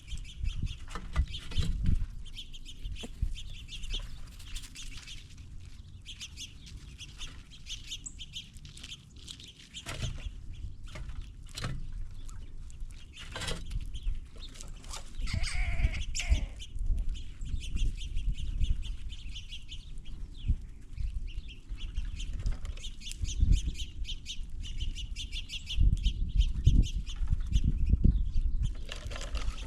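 Squirrels and birds feeding at a peanut table: constant rapid ticking and scrabbling with low thumps, and a single bird call about halfway through.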